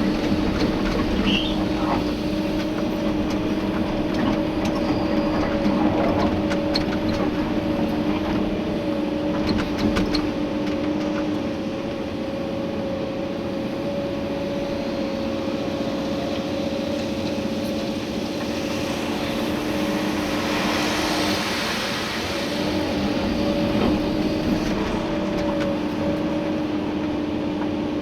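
Komatsu PC290-11 excavator's diesel engine and hydraulics running steadily under digging load, heard from inside the cab, with a steady hum holding two tones. Scattered clicks and knocks come in the first ten seconds or so.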